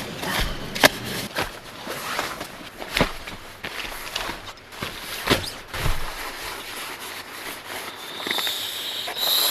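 Scattered clicks, knocks and rustling as camping gear is handled and packed away.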